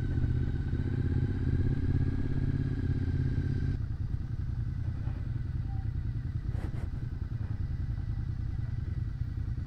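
Motorcycle engine running steadily while riding, its note easing off into a lower, rougher rumble about four seconds in.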